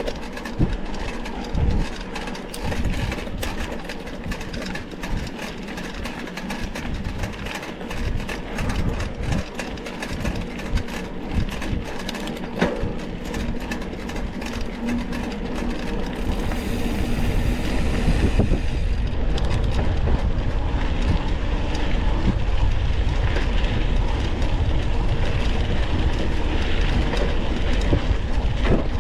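Mountain bike ridden over a rough trail, picked up by a camera mounted on the bike: continuous rattling and knocking over bumps. About two thirds of the way in it turns louder, into a heavy steady rumble.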